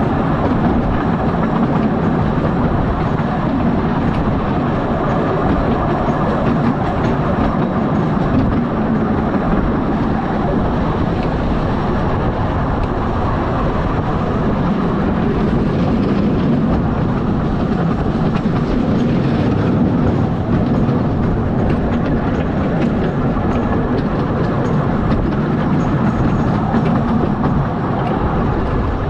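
Small 500 mm gauge park railway train running along the track, heard from on board: a steady rumble of wheels on rails with light clatter.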